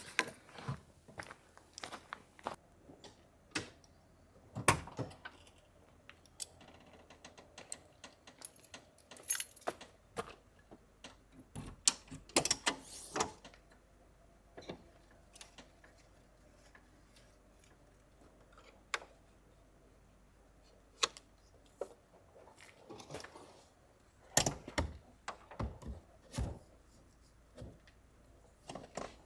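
Camping gear being handled: irregular clicks, clinks and knocks with short rustling patches, in clusters at about 4 seconds, 12 seconds and 24 seconds in.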